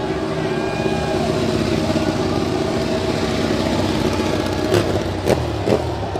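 Motorcycle engines running steadily, with a few sharp pops or cracks near the end.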